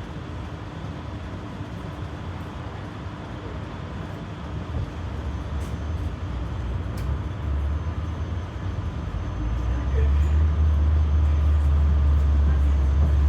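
Ride noise inside a Berlin GT low-floor tram: a steady low rumble of the wheels and running gear with faint thin tones above it. It grows louder about five seconds in and again at about ten seconds.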